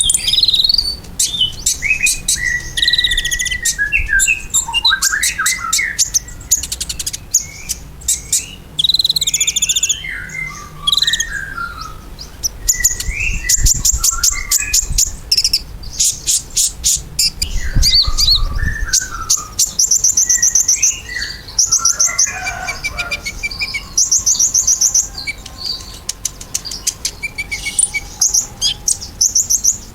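Kolibri ninja (a sunbird) singing energetically and without pause: fast, high trills mixed with quick twittering chirps that slide up and down in pitch. It is a lure song meant to prompt other birds of the same kind to answer.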